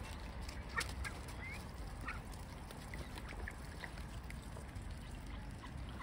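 Birds calling with short, high notes scattered through, one a brief rising note, and a sharp tap about a second in.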